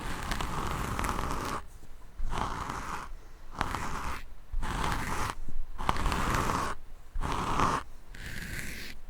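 Scratching strokes across a microphone, close and loud, about seven in a row, each lasting roughly a second with brief pauses between.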